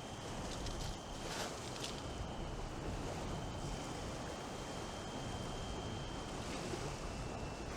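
Strong wind buffeting the microphone over surf breaking on a beach, a steady rushing noise, with a faint thin high whistle running through it.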